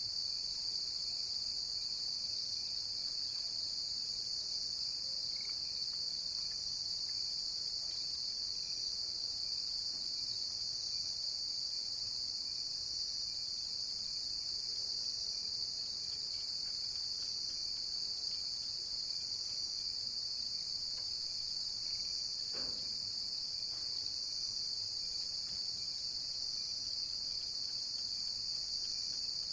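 Cricket chirping, a steady, unbroken high-pitched trill.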